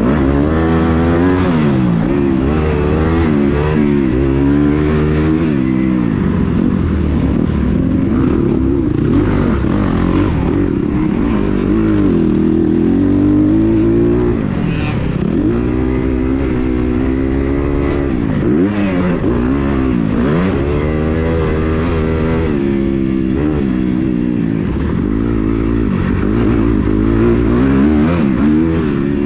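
Kawasaki KX250 motocross bike's engine ridden hard, revving up and dropping back over and over, the pitch climbing and falling every second or two with throttle and gear changes.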